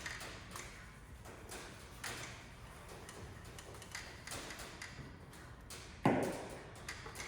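Scattered light taps and clicks over low room noise, with one louder thump about six seconds in.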